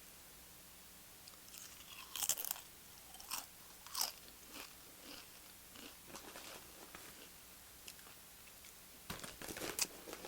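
Close-up crunching of tortilla chips being bitten and chewed: sharp crisp crackles a few times in the first half, softer chewing crunches after, and another run of crunching near the end.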